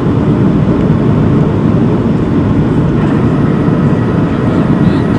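Steady low roar of a Boeing 737-700's CFM56 jet engines and rushing airflow, heard inside the passenger cabin in flight. Faint high steady whine tones join the roar about three seconds in.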